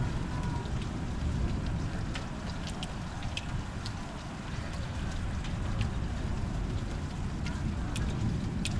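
Thunderstorm ambience: a steady low rumbling of wind and rain, with scattered sharp ticks of single raindrops landing close by.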